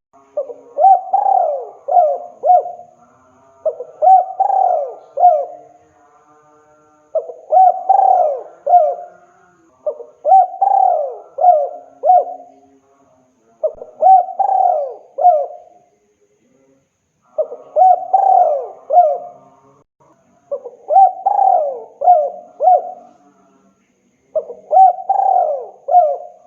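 Spotted dove (tekukur) cooing, a male's advertising call to a female: eight phrases of several low coos each, one phrase roughly every three seconds with short pauses between.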